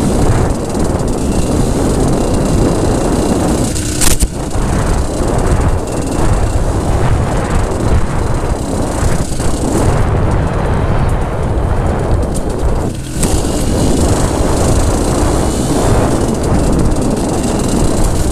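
Aprilia ETX Tuareg 125's two-stroke single-cylinder engine running as the enduro bike is ridden off road, with a sharp knock about four seconds in.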